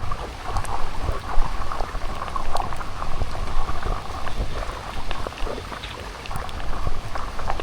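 Steady rain falling, with many small scattered drop ticks over a constant low rumble.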